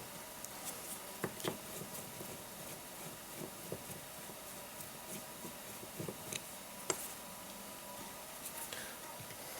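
Scattered small clicks and taps of a motorcycle carburetor and hand tools being handled on a workbench during disassembly, the sharpest tap about seven seconds in, over a faint steady hum.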